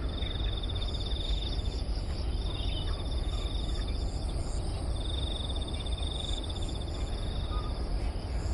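Insects trilling in repeated high, rapidly pulsed stretches of one to two seconds each, with short gaps between, over a constant low outdoor rumble.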